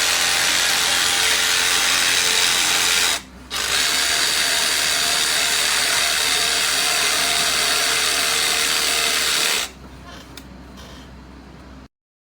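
DeWalt DCS334B 20V cordless brushless jig saw running at speed with a steady motor whine. It stops briefly about three seconds in and starts again, then cuts off near ten seconds, leaving only a much fainter sound.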